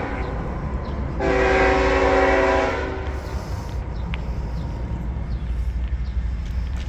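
Locomotive multi-chime air horn on an approaching CSX intermodal freight train, one long blast of about two seconds beginning a second in, over a steady low rumble.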